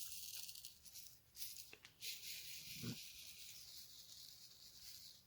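Faint, high hissing in long strokes as dust and debris are cleared off a diamond painting canvas, with a couple of soft knocks.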